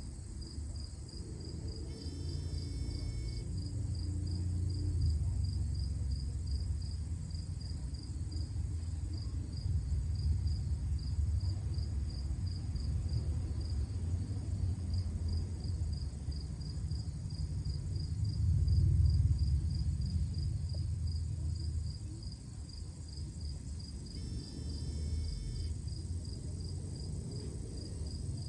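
A cricket chirping steadily, a short high pulse about twice a second, over a louder low rumble that swells and fades.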